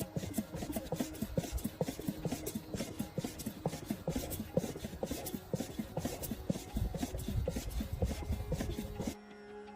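Rapid rubbing and scraping strokes, several a second, stopping suddenly about nine seconds in.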